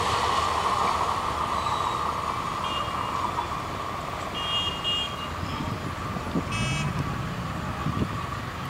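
Wheel-and-rail noise of a passenger train's coaches running away along the track, fading steadily as the last coach recedes. A few short, high beeps sound over it in the middle and near the end.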